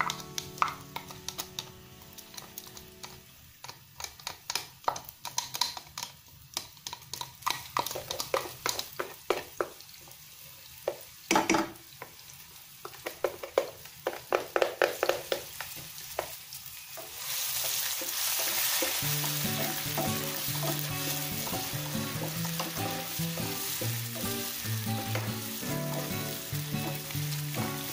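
A spatula scrapes and taps repeatedly against a glass chopper bowl and a non-stick wok for about the first 17 seconds. Then chopped chillies start a steady sizzle in hot oil in the wok as they are stirred with a wooden spatula, over background music.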